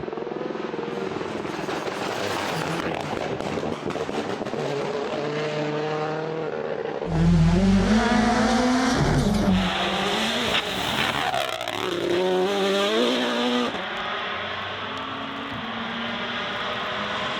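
Rally car engines revving up and down through gear changes as cars drive on the stage, in several short clips cut together. The loudest passage starts about seven seconds in.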